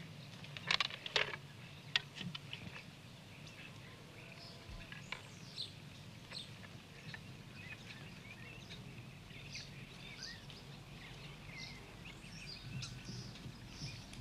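Birds chirping in many short, scattered calls, with a few sharp clicks about a second in and another at about two seconds.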